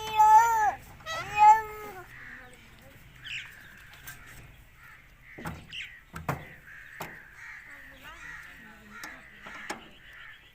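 Ringneck parrot giving two loud, drawn-out calls in quick succession, each rising and falling, then softer chirps and chatter with a few sharp clicks.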